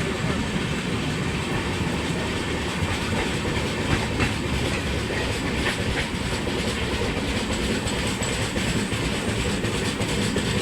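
A train rolling past, its wheels clicking over the rail joints in a steady rumble.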